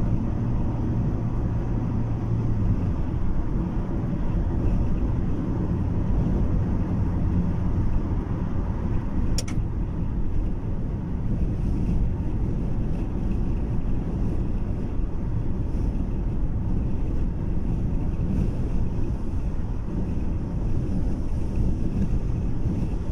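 Cabin noise of a car on the move: a steady low rumble of road and engine, with strong wind against the car. A low hum fades about three seconds in, and there is a single brief click about nine seconds in.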